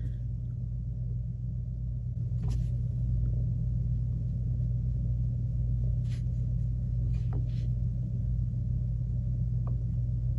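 Steady low hum in the room, with a few faint, short scratches of a tool scoring clay.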